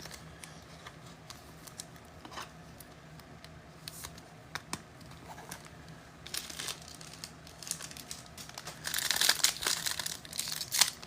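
Foil trading-card pack wrapper crinkling and being torn open. A few faint clicks come first, then the crinkling starts about six seconds in and gets louder and denser near the end.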